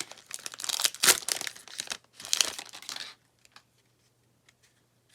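Wrapper of a basketball trading-card fat pack being torn open and crinkled, a dense crackling that stops abruptly about three seconds in, followed by a few faint ticks.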